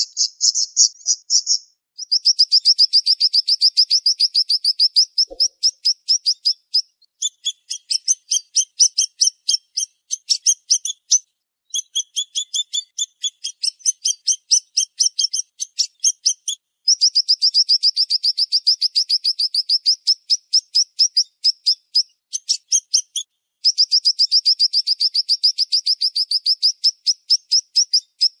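Siri-siri songbird singing a fast, high-pitched trill: long runs of quick, tightly packed chirps, about ten a second, broken by short pauses every few seconds. Some runs alternate a lower and a higher note.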